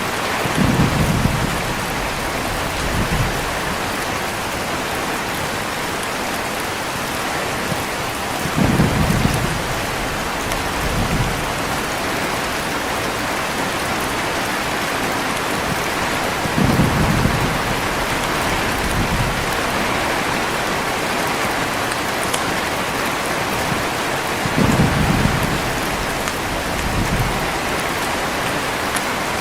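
Heavy, steady rain with low rolls of thunder four times, about eight seconds apart, each followed about two seconds later by a softer second rumble.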